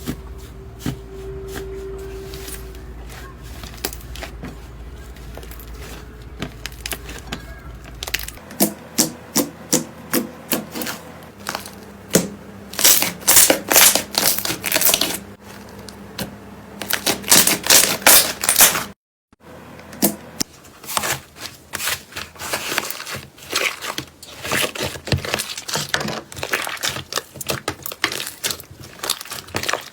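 Slime being pressed and squished by hand, making rapid runs of sharp clicks and pops. The first few seconds are quieter, over a low hum, and the sound cuts out briefly about two-thirds of the way through.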